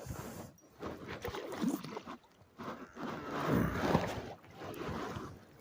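Water splashing and sloshing around a canoe in irregular bursts, loudest about three and a half seconds in.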